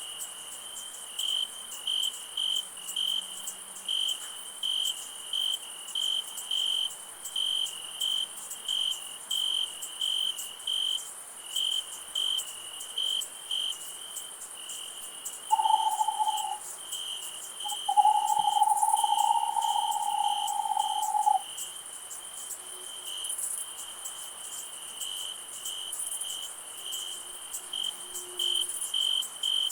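Night chorus of crickets chirping in an even rhythm of about two pulses a second over a steady high insect hiss. About halfway through, two steady whistled notes sound, a short one and then a longer one lasting a few seconds, louder than the crickets.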